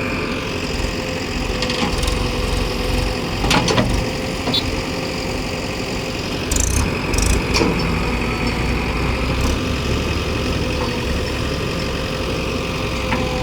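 Tractor engine idling steadily with a constant hum, with a few brief knocks and clatters.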